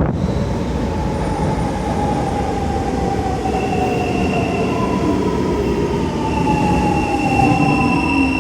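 Siemens C651 metro train running, its GTO-VVVF traction inverter whining over steady rail rumble. Several whining tones sit over the rumble: one slowly falls in pitch, and a higher one joins about halfway through.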